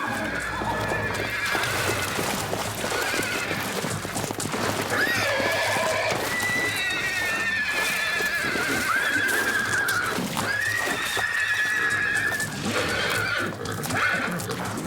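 Horses whinnying several times: long, wavering high-pitched neighs that rise and fall in pitch, over background music.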